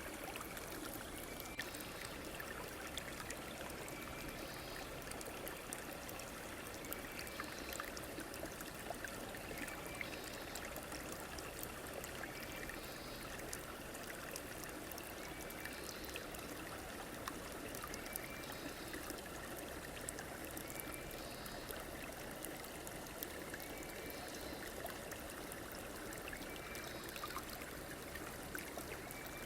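A river stream flowing and trickling steadily, with small splashing ticks. A short, high call repeats at an even pace about every two seconds over the water.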